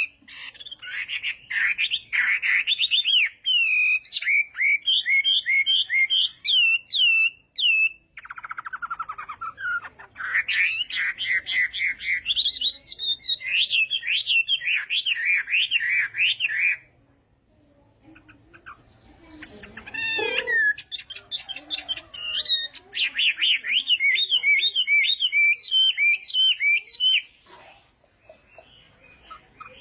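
Chinese hwamei (hoạ mi) singing loud, rapid phrases of varied whistled notes that slide up and down in pitch. The song comes in long runs, broken by short pauses at about a quarter and just over halfway through, and again near the end.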